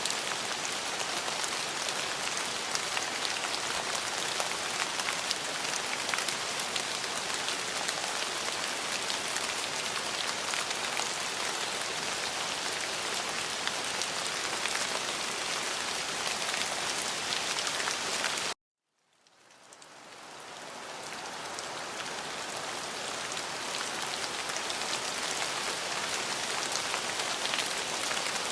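Steady rain with a dense patter of drops. About two-thirds of the way through, the sound cuts off suddenly and then fades back in over a few seconds.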